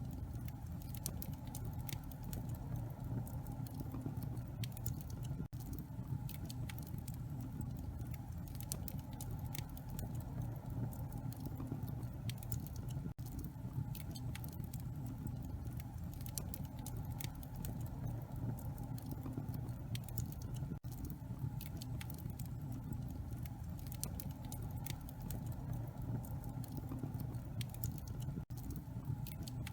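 Wood fire burning in a fireplace, with a steady low rumble and irregular sharp crackles and pops from the burning logs. Brief dropouts come about every seven to eight seconds.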